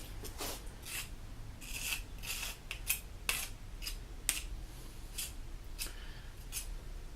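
High-heat refractory cement being scraped and spread onto a fire brick, a dozen or so short, irregular scraping strokes.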